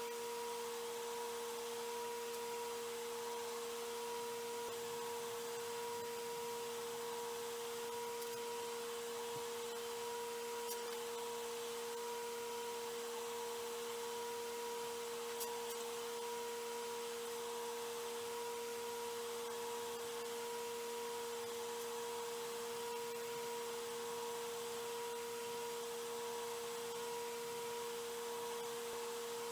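A steady, unchanging hum with one clear main pitch and fainter pitches below and above it, over light hiss, with a couple of faint clicks partway through.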